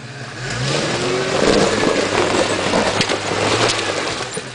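4x4 off-road vehicle's engine revving up. The engine note climbs and grows loud about half a second in, then stays high with a rough, noisy edge.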